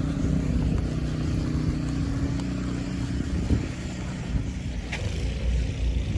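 A motor vehicle's engine running steadily, fading after about three and a half seconds.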